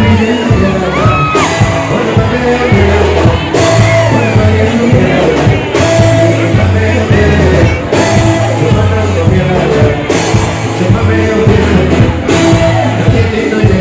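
A live band playing loud music with a singer over it and a heavy, repeating bass line, with a cymbal-like accent about every two seconds.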